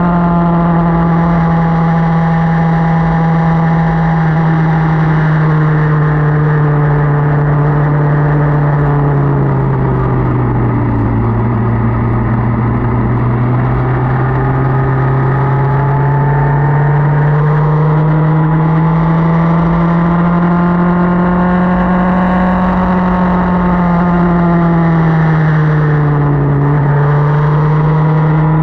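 Motorcycle engine running under way, with wind rush on the microphone. Its pitch sinks about ten seconds in, climbs steadily again, and dips briefly near the end.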